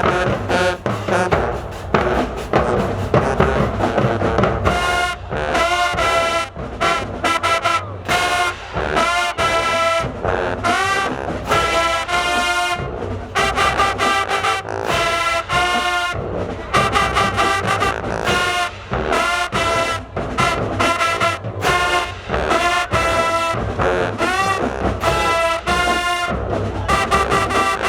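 A high school marching band playing, brass and drums. Drums carry it at first; about four seconds in the brass section comes in with short, punchy phrases over the drumline.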